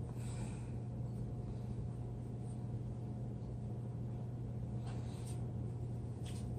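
A steady low electrical hum, with a few faint, brief rustling noises: one shortly after the start, one about five seconds in, and one near the end.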